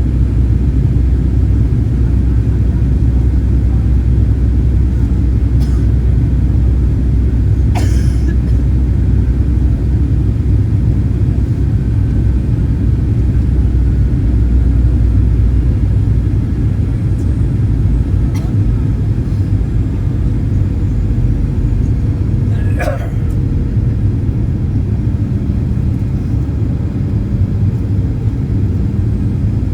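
Steady low rumble of engine and airflow heard inside the cabin of a Boeing 737-800 airliner, with a few brief clicks.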